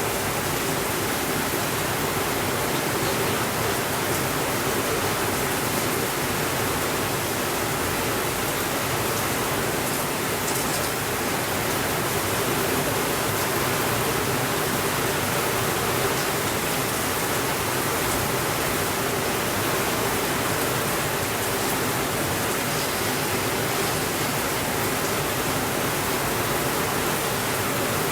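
Steady rainfall, an even hiss with no breaks or changes in level. A few faint light ticks sound about ten seconds in.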